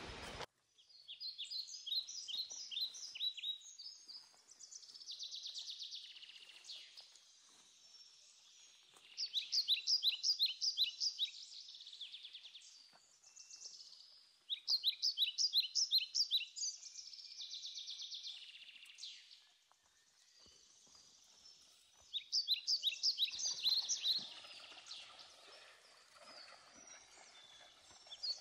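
Birdsong: short phrases of fast, trilled notes repeated every few seconds, with a fainter buzzy song between them.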